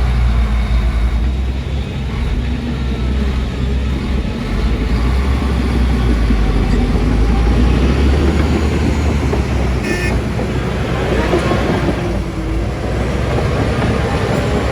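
Heavy diesel earthmoving machinery running steadily under load, with a brief high tone about ten seconds in.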